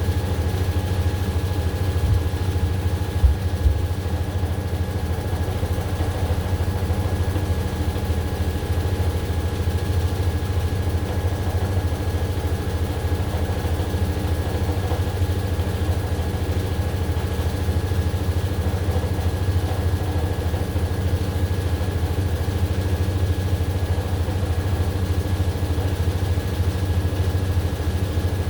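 AQUA AQW-DX12M drum washing machine with its drum spinning steadily, a continuous motor hum with a steady whine above it, and a few short knocks about two to four seconds in.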